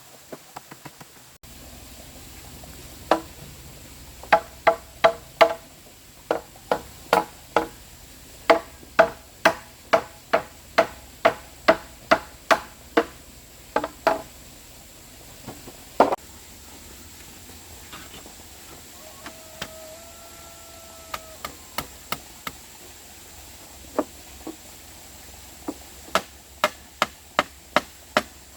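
Repeated blows of a hand tool on wood or bamboo, each strike with a short ringing note, about two a second in a long run, then a few scattered strikes with pauses and a new run near the end.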